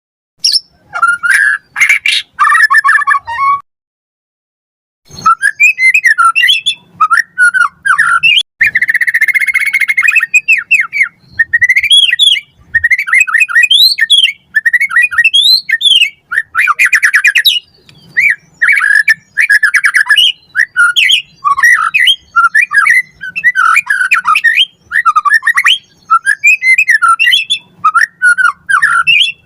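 White-rumped shama singing vigorously: a fast, varied run of whistled glides, quick trills and harsh rattling notes, laced with mimicked phrases. The song breaks off briefly about four seconds in.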